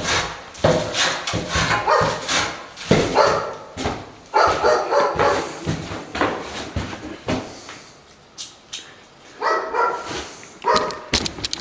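A dog barking repeatedly, in a run of short calls with a brief lull partway through.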